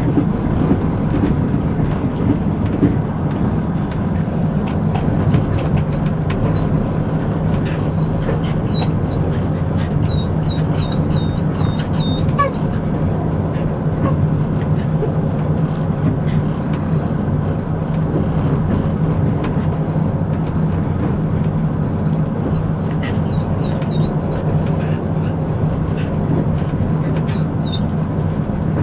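Passenger train running steadily, a continuous low rumble, with two runs of short, high-pitched squeaks repeated several times a second, about a third of the way in and again near the end.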